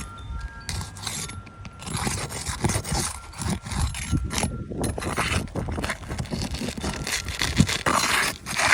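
Irregular scraping and rustling with small knocks, typical of roof shingles being handled and slid against each other during a shingle repair.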